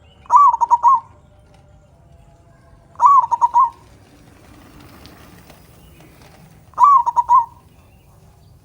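Local zebra dove (perkutut) cooing its song with a big 'kung': three short phrases, each a quick run of notes lasting under a second, coming about every three and a half seconds.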